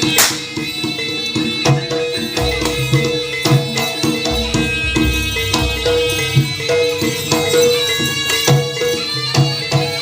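Live Javanese jaranan music: hand drums beating a steady rhythm under gamelan percussion and a reedy wind instrument holding a melody, with a cymbal-like crash right at the start.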